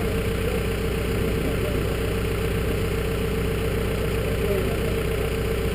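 An engine idling steadily, with a constant low hum and a steady mid-pitched tone over it.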